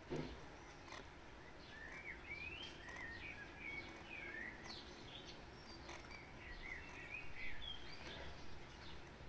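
Faint birdsong: a string of short chirping notes, rising and falling, over a steady low background hum. A single short knock right at the start.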